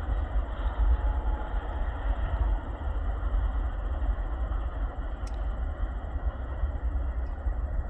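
Cars of a BNSF double-stack intermodal freight train rolling past with a steady, heavy rumble, and a single sharp click about five seconds in.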